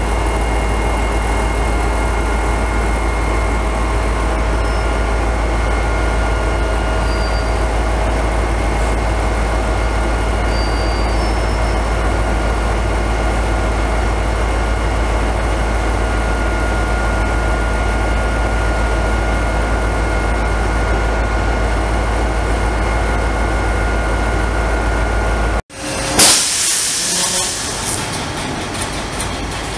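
A railway locomotive standing with its engine idling: a steady drone with a few held tones over a low rumble. About 26 s in it cuts off abruptly, and a louder, hissing sound begins.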